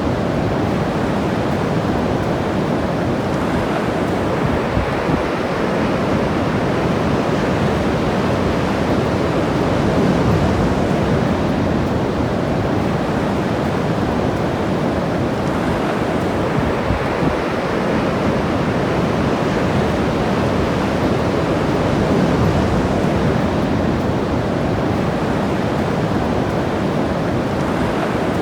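Ocean surf breaking and washing on the shore, a steady rush that swells and eases every several seconds, with some wind on the microphone.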